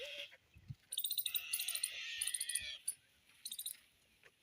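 Small birds chirping and twittering: a rapid, high-pitched burst of about two seconds, then a shorter burst near the end.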